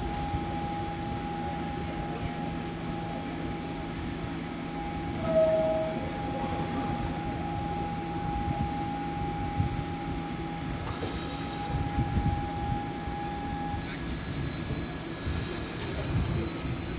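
Subway train running on the rails with a steady high-pitched wheel squeal, which shifts to a higher, thinner squeal about fourteen seconds in. A brief louder tone sounds about five seconds in.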